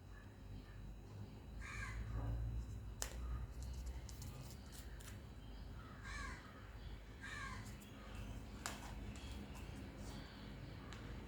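Three short bird calls in the background, about two, six and seven and a half seconds in, with a couple of sharp taps from working at the table.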